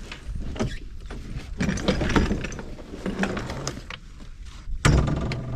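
Irregular mechanical clicking and rattling of sailboat hardware while a new sail is rigged, with a heavier knock about five seconds in.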